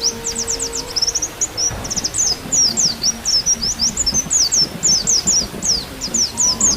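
White-eye (pleci) song: a continuous stream of rapid, high chirps and trills. A held bamboo flute note fades out about a second in, and another begins near the end.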